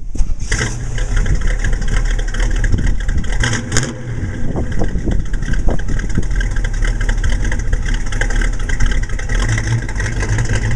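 A 1939 Ford Deluxe street rod's 350 cubic-inch Chevy small-block V8 running through its dual exhaust. There is a short hiss about four seconds in.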